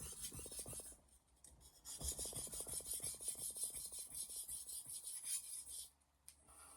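A Japanese kitchen knife's blade scraping back and forth across a whetstone in quick, even sharpening strokes. There is a short pause about a second in, and the strokes stop about six seconds in, followed by a light click.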